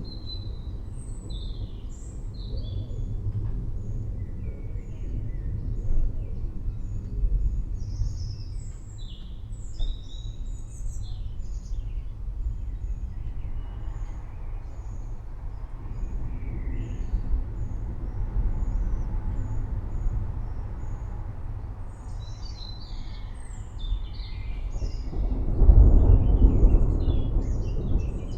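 Low rolling rumble of distant thunder under many short bird chirps and calls; the thunder swells louder near the end.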